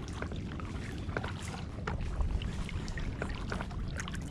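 Kayak paddling: paddle blades dipping and water dripping in short, scattered splashes and clicks, over a low rumble of wind on the microphone.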